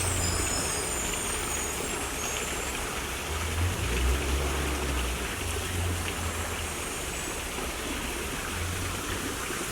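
Steady rush of running water from a garden pond's waterfall or stream, with a low rumble coming and going beneath it.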